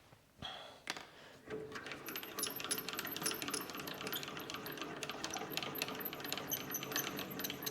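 Mini metal lathe's mechanism making a dense run of rapid metallic clicks and rattles, after a couple of single clicks near the start, with a faint steady high tone over it.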